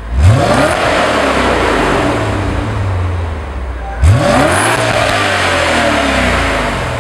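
BMW M5 (E39) 4.9-litre V8 revved twice while standing still, heard from the exhaust in a parking garage: each blip sweeps quickly up in pitch, then the revs sink slowly back. The second blip comes about four seconds after the first.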